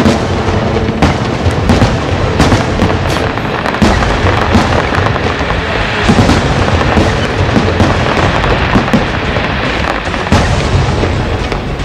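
Aerial fireworks shells bursting in a dense, unbroken barrage of booms and crackles, one report after another with no pause.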